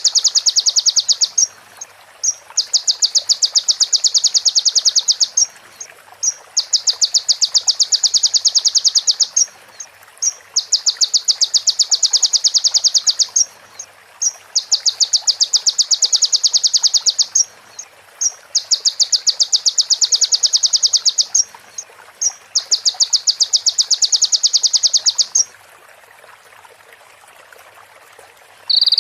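Konin (kolibri ninja sunbird) singing a female prinia imitation: a very fast, high-pitched rattling trill of about three seconds, repeated seven times with short pauses between, stopping about 25 seconds in.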